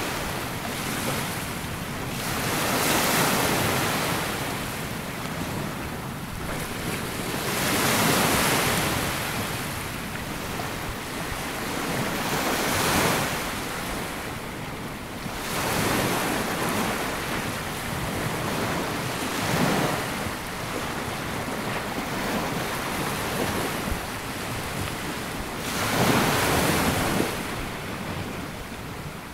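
Sea waves breaking and washing up a sandy beach, a surge swelling and falling away every few seconds over a constant hiss of surf.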